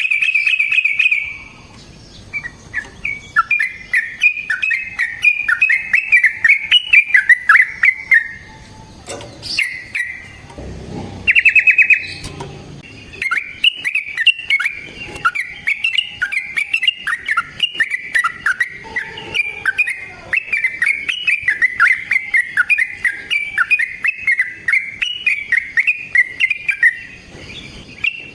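Yellow-vented bulbul singing long runs of rapid, bubbling, up-and-down chattering notes, with short fast trills between phrases.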